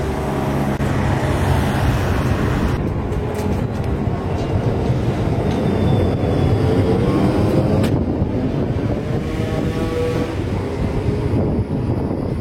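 TRAM d'Alacant tram running on its rails with a steady rolling rumble. In the second half an electric whine shifts up and down in pitch.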